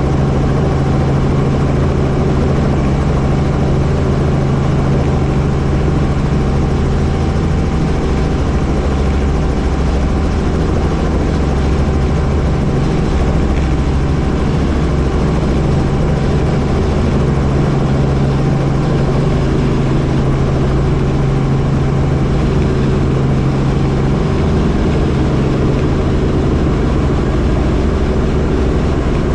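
Helicopter running steadily: loud, unbroken engine and rotor noise with a strong low hum.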